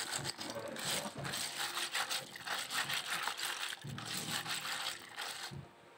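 Shellfish shells clattering and clicking against each other and the tray as they are washed by hand, a rapid, irregular rattle that tails off near the end.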